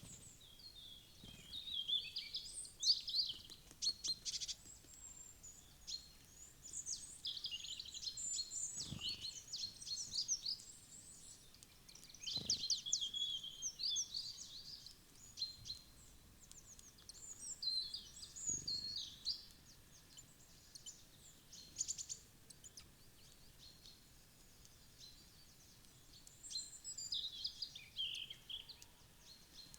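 Small woodland songbirds chirping and calling in quick high-pitched bouts, with a few scattered soft knocks.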